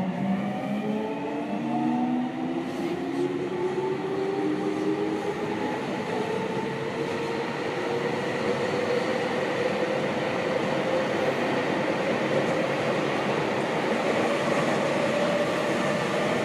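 Seibu 6000 series train's Hitachi GTO-VVVF inverter and traction motors accelerating, heard from inside the car: several whining tones climb in pitch together over the first few seconds, then give way to steady running noise of wheels on rail with one faint tone still slowly rising.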